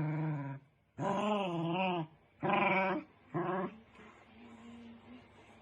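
A dog vocalizing: four whining calls of wavering pitch, the second and longest about a second long.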